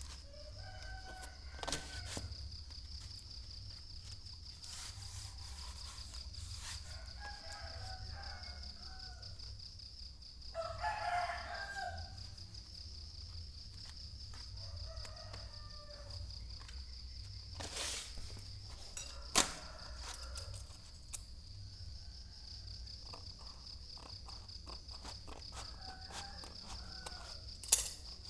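Birds calling, with short pitched calls throughout and one longer call of about a second and a half near the middle, over a steady high-pitched whine. A few sharp knocks come in the second half.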